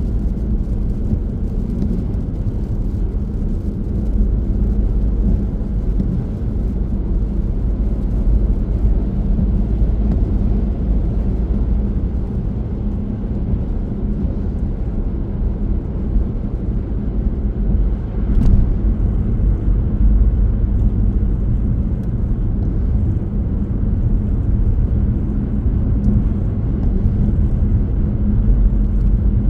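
Car driving along, with a steady low rumble of tyre and engine noise.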